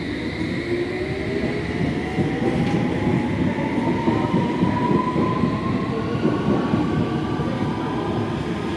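Electric passenger train pulling away, its traction motor whine rising steadily in pitch over the rumble of the wheels on the track as it accelerates.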